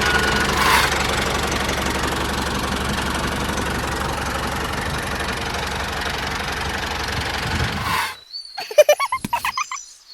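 Steady engine running noise with a low hum, which cuts off suddenly about eight seconds in. Short pitched sounds that bend up and down follow for a couple of seconds.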